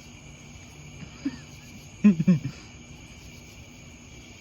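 Steady trilling chorus of night insects, with a short voiced sound in a few quick pulses about two seconds in.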